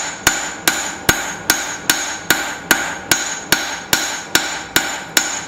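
Hand hammer striking a hot steel knife blade on an anvil in a steady rhythm of about two and a half blows a second, each blow ringing briefly, while the blade's edge bevel is forged very thin.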